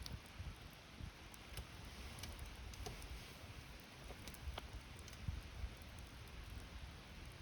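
Wood campfire crackling, with scattered small pops and clicks over a soft low rumble of burning.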